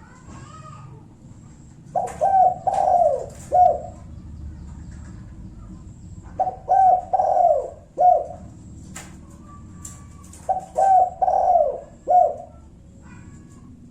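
Spotted dove cooing its territorial song, three phrases of several short coo notes each, roughly every four seconds. It is the call used as a lure to provoke rival doves into answering.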